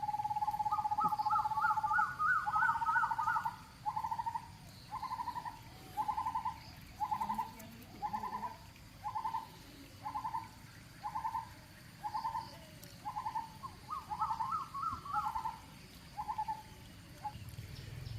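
A bird calling: a long trill, then a slow series of short trilled notes about once a second that fades out near the end. A second rising trill joins over the first few seconds and again near the end.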